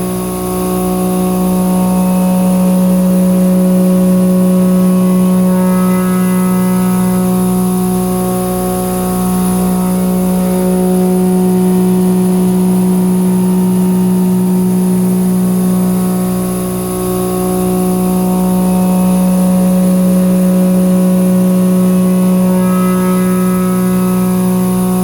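A Haas VF3 CNC mill cutting carbon steel with a three-flute Mitsubishi APX-3000 indexable shoulder mill with carbide inserts. It makes a steady, loud humming tone with several higher tones above it, swelling and easing slowly as the cutter works around the part.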